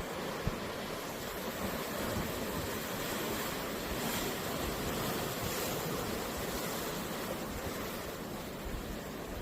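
Sea waves washing onto a beach: a steady surf hiss that swells slightly midway, with some low wind rumble on the microphone and a short thump about half a second in.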